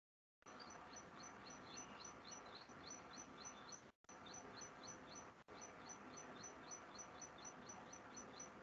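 A small bird chirping over and over, about four short high chirps a second, faint over a low hiss and heard through a video call's audio. The sound drops out briefly twice midway.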